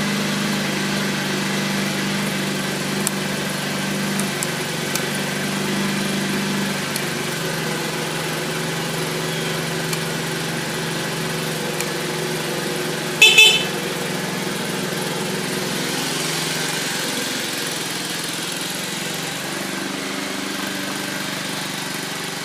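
2013 TaoTao moped engine idling steadily after a cold start, with a short, loud horn beep a little past halfway.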